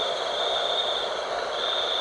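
Night wind blowing steadily, with a high, steady trill over it that breaks off briefly and resumes.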